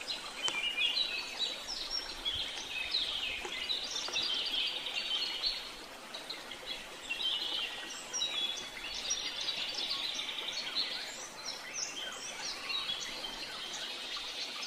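Wild birds chirping and calling together, many quick high notes overlapping almost without a break, over a steady background hiss.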